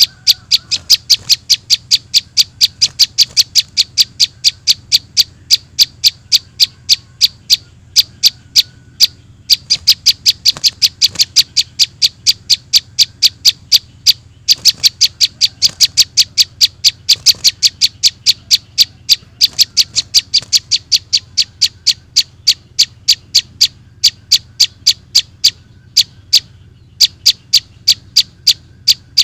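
Rapid, evenly repeated short sharp chirps, about three to four a second, with a few brief breaks. These are the calls of young prinias (prenjak) played as a lure to draw small birds.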